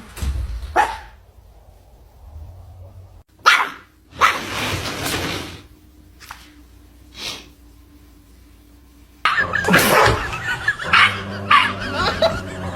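Dog barking: a few separate barks spaced a second or more apart, then louder, busier barking and noise in the last few seconds.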